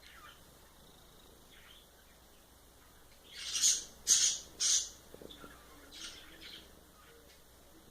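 Pet bird making three quick, sharp, hissy bursts in a row about halfway through, with a few fainter short chirps before and after.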